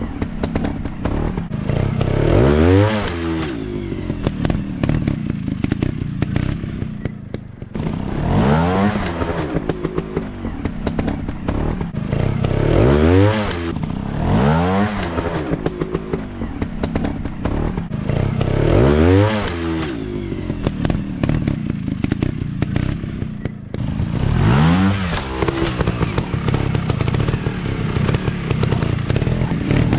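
Motocross dirt bike engines running hard, the pitch climbing and dropping again and again as the throttle opens and closes, about every four to six seconds.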